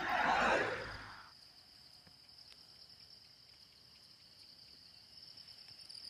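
A rushing noise fades out about a second in. It leaves a faint, high, steady insect trill, which breaks into rapid pulses near the end.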